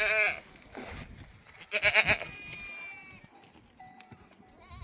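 Sheep and goats of a herd bleating: a quavering bleat right at the start, a louder one about two seconds in, and a thin, high, held call just after it.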